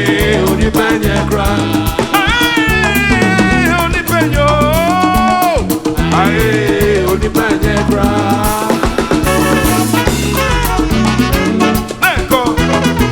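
Traditional band music in an instrumental passage: a steady drum and bass groove under a melodic lead line that bends and slides up and down in pitch.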